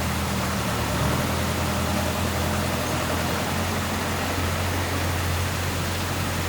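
A small motor running steadily at an even speed with a low hum, its pitch shifting slightly about a second in.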